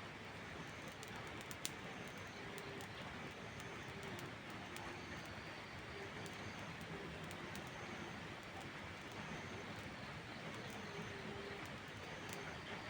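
Steady heavy rain with scattered crackles and small pops of a wood fire, one sharper pop a little under two seconds in. A low, repeated bird call, like a dove cooing, comes and goes.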